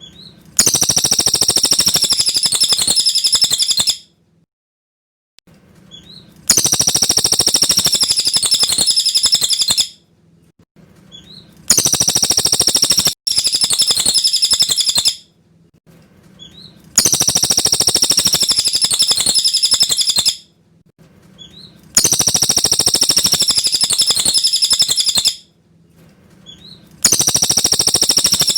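Cililin bird singing loudly in repeated high-pitched phrases of about three to four seconds each, with short pauses between them, about six phrases in all. It is a clear song recording of the kind played as masteran to teach a murai batu.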